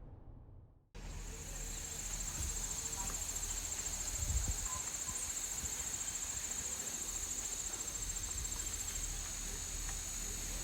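Insects trilling in a steady, high, continuous shrill that cuts in abruptly about a second in, over a faint background hiss.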